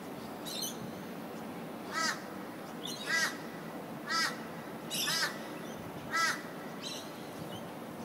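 A bird, most like a crow, calling repeatedly: five loud calls about a second apart, with a couple of fainter ones before them, over a steady background noise.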